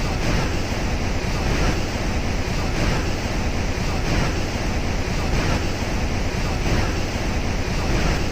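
Steady roar of Niagara Falls' water crashing down close by, with wind buffeting the microphone.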